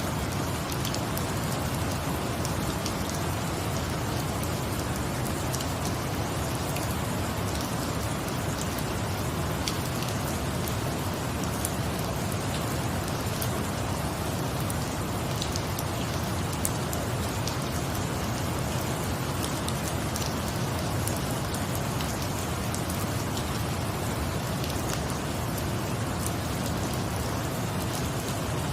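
Steady rain, an even hiss with many small scattered ticks of drops, unchanging throughout.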